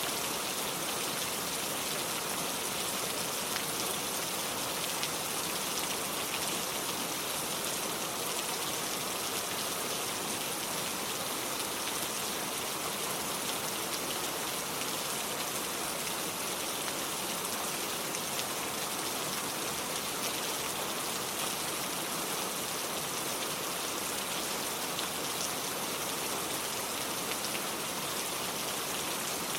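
Steady, unbroken rain, a dense patter of raindrops.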